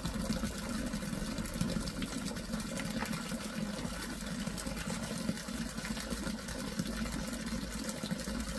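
A steady low hum of a small motor running, with no clear breaks.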